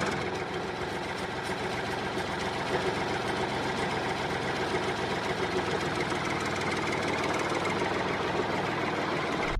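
Small electric motor of a homemade model tractor or pump running steadily with a fast buzzing rattle, getting slightly louder over the stretch.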